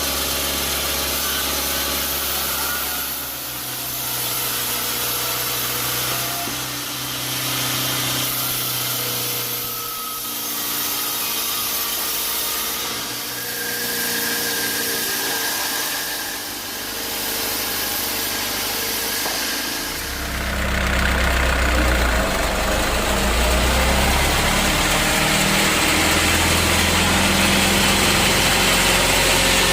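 Sawmill machinery running steadily with slow swells in level. About twenty seconds in it gets louder, with a heavier low rumble and a noisy hiss over it.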